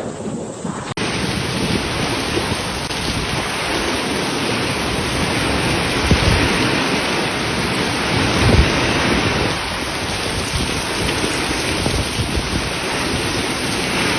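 Heavy rain and strong wind of a storm: a steady, loud rushing noise, with low thumps about six and eight and a half seconds in.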